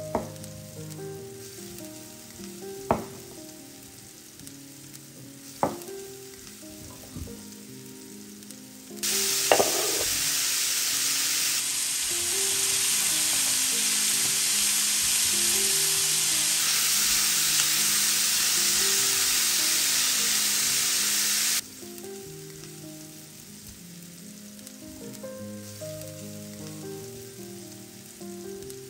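Food sizzling in hot oil in a pan, a loud steady sizzle that starts abruptly about nine seconds in and cuts off about twelve seconds later, over background music. A few sharp knocks come before it.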